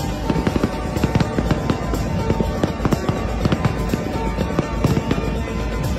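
Fireworks display: dense, rapid bangs and crackles of shells bursting, several a second, with a dance music track mixed over them.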